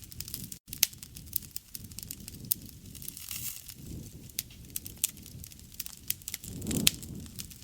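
Wood fire crackling, with irregular sharp pops and snaps over a low rushing flame sound that swells briefly near the end.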